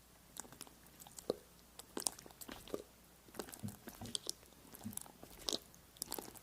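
Close-miked crisp crackles, clicks and crunches coming irregularly, several a second, with a few soft low thuds among them.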